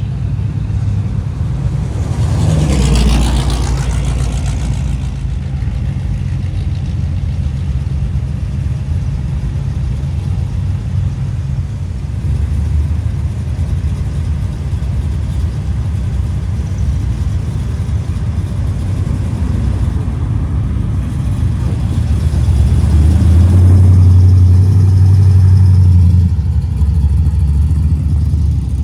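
Classic cars' engines and exhausts running low as they drive slowly past one after another. A car passes loudly a few seconds in, and near the end a deep, steady exhaust note swells as a car goes by close, the loudest sound.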